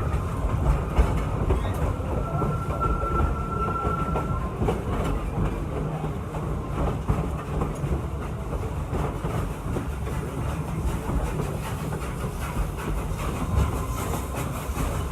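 Steam excursion train heard from on board while rolling along the track: a steady low rumble with an irregular clatter of wheels and couplings. A thin, steady high tone sounds for about two seconds, starting about two seconds in, and returns faintly near the end.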